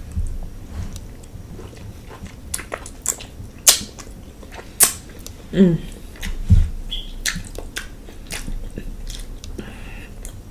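Person eating king crab close to the microphone: chewing with sharp, scattered wet smacking clicks, and a brief voiced hum about halfway through.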